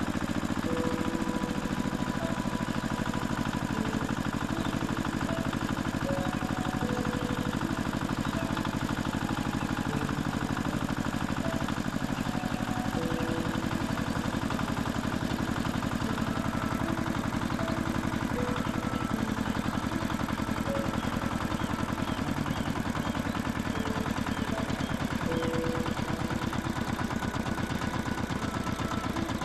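An engine running steadily at idle with a fast, even chugging pulse, and brief higher tones here and there.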